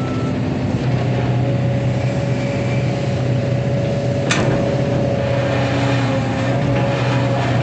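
Excavator's diesel engine running steadily, with a whine held at one pitch through most of it and a single sharp knock about four seconds in.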